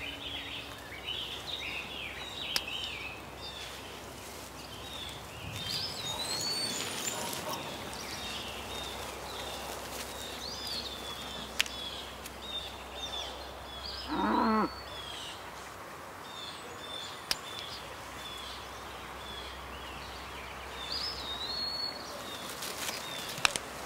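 Birds chirping and twittering steadily, many short high chirps. About halfway through comes one short, lower pitched call, and there are a few sharp clicks.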